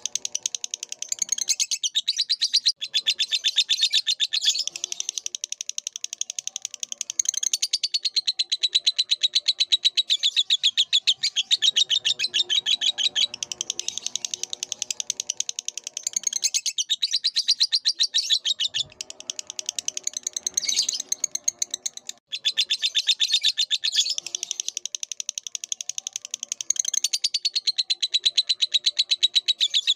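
Lovebird singing a long, rapid chattering song of fast, high twittering notes, broken by short pauses about 2.5, 16.5 and 22 seconds in.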